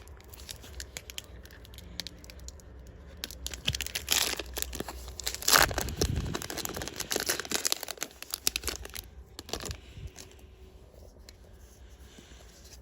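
A trading card booster pack's wrapper crinkling and being torn open, the loudest tear about five and a half seconds in, then quieter rustling.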